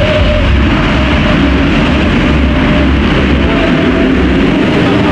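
Motocross motorcycle engines racing on the track, a loud continuous rumble with the pitch of passing bikes rising and falling as they rev.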